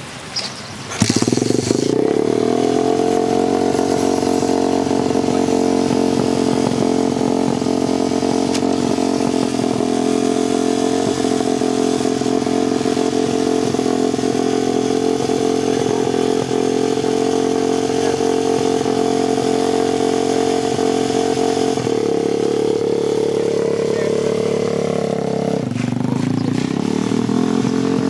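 Dirt bike engine starting about a second in and settling to a steady fast idle. Near the end the pitch climbs, drops suddenly and climbs again.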